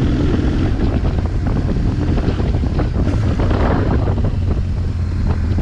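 Riding a BMW R1200GS motorcycle: wind rushing over the microphone, with the boxer-twin engine's steady low drone and road noise underneath.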